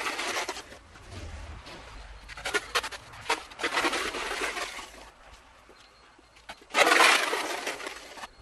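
Ice being scraped and broken with an ice scraper, in several rough, gritty bursts of varying length, the longest and loudest near the end.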